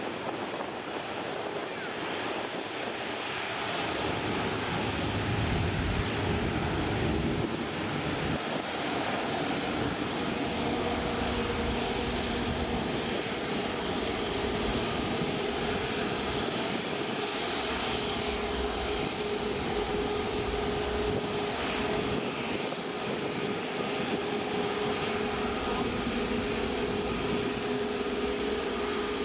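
Jet airliner's engines running, swelling from about four seconds in, with a steady whine holding from about twelve seconds on.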